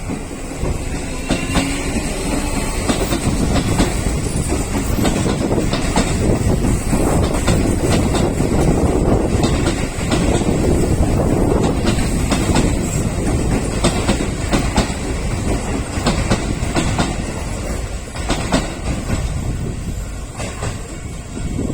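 Keio Electric Railway commuter train running along the track, its wheels clacking steadily over rail joints with a loud rumble and a steady high whine.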